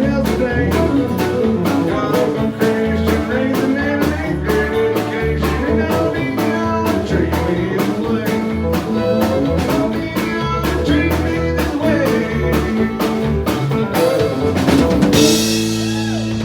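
Country band of guitar, bass and drum kit playing an up-tempo song. About a second and a half before the end it stops on a held final chord with a cymbal crash.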